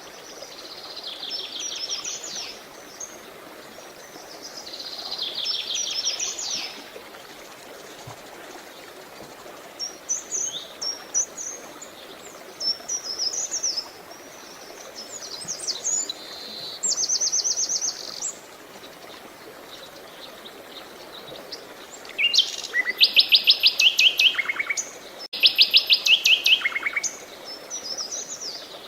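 Songbirds singing short, rapid trilled phrases every few seconds, the loudest two near the end, over the steady rush of running water.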